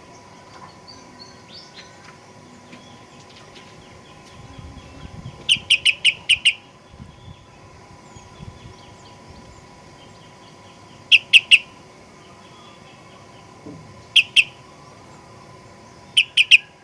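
Sooty-headed bulbul (kutilang) calling in short bursts of loud, rapid notes, four bursts a few seconds apart, with softer chatter between them.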